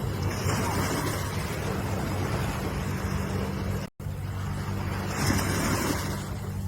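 Ocean waves washing, swelling about half a second in and again around five seconds in, over a steady low hum. The sound cuts out for an instant about four seconds in.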